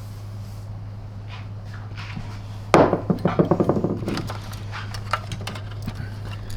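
Hard vacuum-cleaner parts being handled on a workbench: a sharp knock about a third of the way in, then a quick run of rattling clicks dying away, and a few light clicks after. A steady low hum sits underneath.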